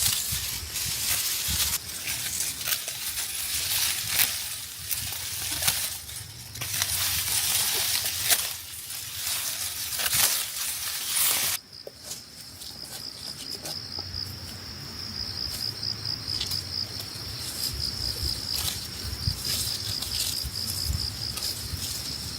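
Dry rice stalks rustling and crackling in a dense run of short strokes, as when ripe rice is being cut by hand. About halfway through, this stops abruptly, and a steady, high, pulsing trill of crickets or other insects takes over.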